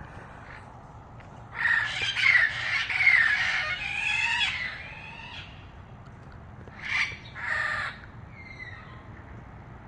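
Parrot squawking: a run of harsh calls lasting about four seconds, then a pause and two short squawks, with fainter chatter near the end.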